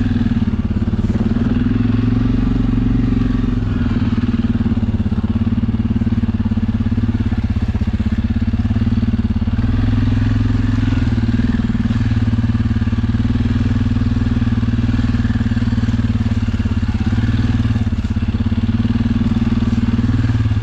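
Suzuki KingQuad ATV's single-cylinder four-stroke engine running steadily as the quad is ridden through snow, its note holding an even pitch with only small dips in level.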